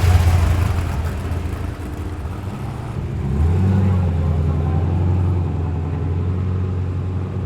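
Performance car engines pulling away. A deep engine note is loudest right at the start and eases off, and about three and a half seconds in a second car's low, steady engine note comes in and holds.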